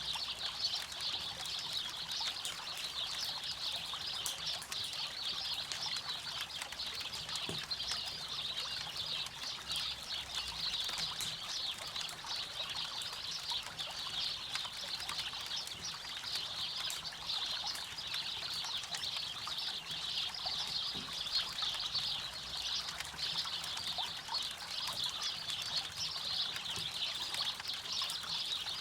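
River water trickling and babbling steadily, with occasional sharp crackles and pops from a wood campfire.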